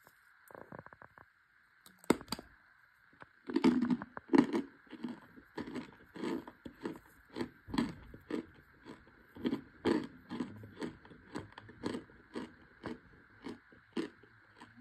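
Chunks of compressed cornstarch being bitten and chewed close to the microphone: a sharp crack of a bite about two seconds in, then steady crunching chews about two a second.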